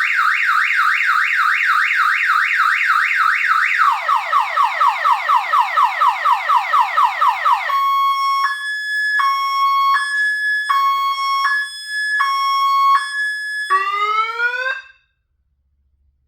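Chevrolet 454 SS pickup's car alarm siren, set off by reconnecting the battery. It cycles through its tones: fast repeating wails, then slower sweeps, then a two-tone hi-lo, then a short rising whoop, and cuts off suddenly about fifteen seconds in.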